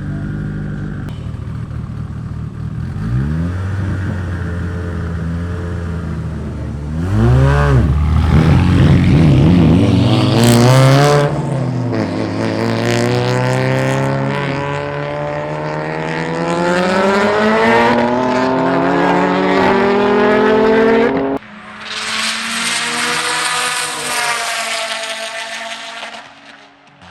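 Street-car engines rumbling, then accelerating hard at full throttle about seven seconds in, the pitch climbing through several gear shifts before cutting off suddenly. A few seconds of loud engine noise follow and fade away near the end.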